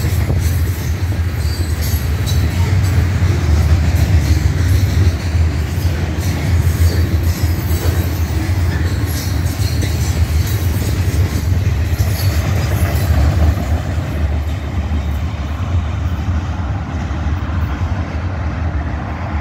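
Freight cars, mostly covered steel-coil cars, rolling past on the rails: a steady low rumble with scattered clicks. It eases off somewhat in the last few seconds as the tail of the train moves away.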